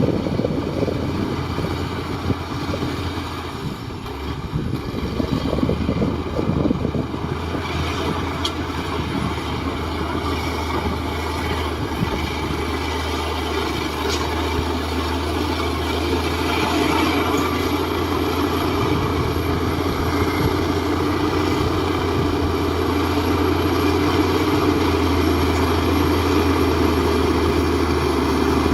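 Heavy diesel engine of earthmoving machinery running steadily with a deep drone, getting gradually louder over the second half.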